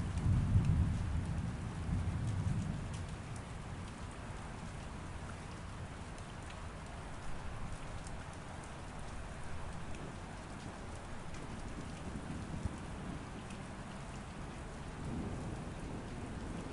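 Steady rain falling, with a low rumble of thunder in the first few seconds that dies away, and a fainter rumble swelling again near the end.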